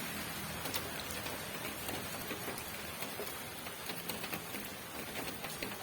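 Steady rainfall: a continuous hiss of rain with many individual drops ticking sharply on a surface.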